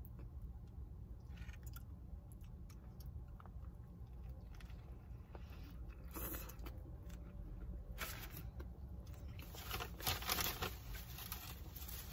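A person biting into and chewing a large crispy fried chicken sandwich, with soft crunches and mouth noises. The crunching gets louder about six seconds in and again over the last few seconds.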